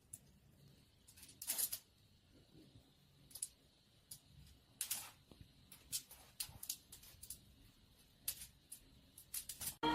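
Faint, scattered short clicks and scratchy rustles, irregular and spread out over several seconds, thickest in the second half.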